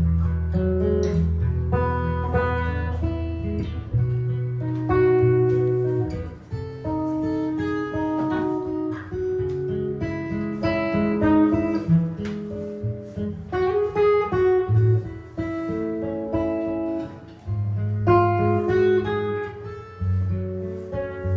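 Solo improvised jazz guitar: plucked melodic lines and chords over low bass notes, with no other instrument.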